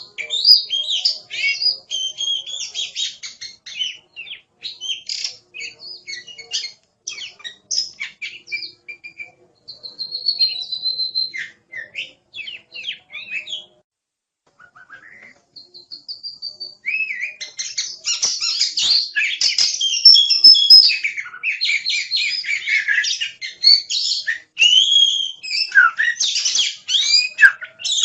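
Oriental magpie-robin (kacer) singing a varied song of rapid whistles, chirps and trills, with a short break about halfway through before the song picks up again, denser and louder.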